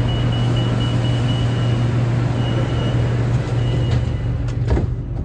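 Running noise inside a BTS Skytrain EMU-B1 car: a steady low hum under a wide rumble, with a faint high whine coming and going. There is a short knock near the end.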